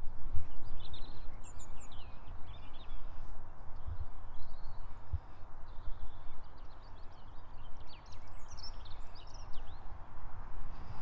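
Small birds chirping and singing in short bursts, mostly in two spells near the start and near the end, over a steady low rumble of wind against the microphone.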